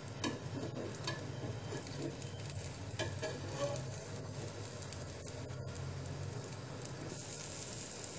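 Egg and bread omelette sizzling gently in oil in a pan over a medium flame, with a few faint clicks.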